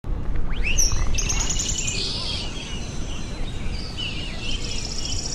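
Birds chirping and singing, with quick high trills and short swooping calls over a low background hum.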